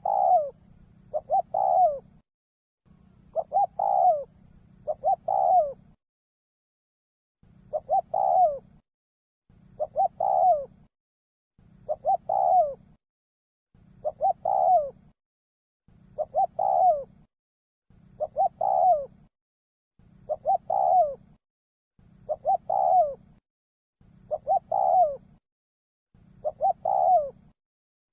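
Spotted dove cooing: a phrase of two short coos and a longer falling coo, repeated about every two seconds. A faint low hum comes and goes with each phrase.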